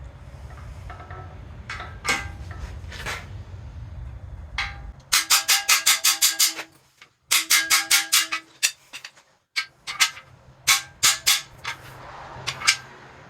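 Hammer blows on a steel cam bearing installer bar, driving a new cam bearing into a 6.0 LS V8 block; each blow rings like metal. Two quick runs of strikes, about six a second, come in the middle, then a few single blows near the end.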